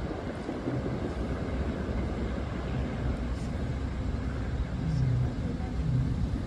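Train rumbling by: a steady low rumble that carries on throughout, with a faint low hum rising out of it about five seconds in.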